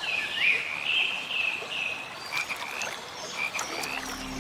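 Frogs calling in chorus: short high-pitched calls repeating several times a second, some rising in pitch.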